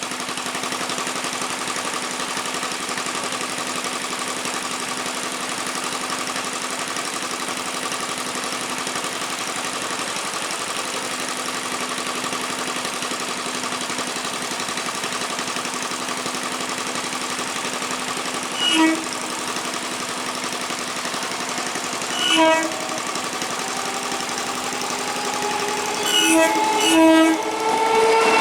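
Old conventional EMU train sounding its horn in short blasts: once about two-thirds of the way through, again about four seconds later, then twice in quick succession near the end, over a steady hum. The train's running sound rises in pitch and grows louder near the end as it approaches.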